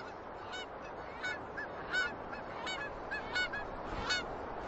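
A flock of seabirds calling: many short, repeated honking calls overlapping one another, over a steady rushing background.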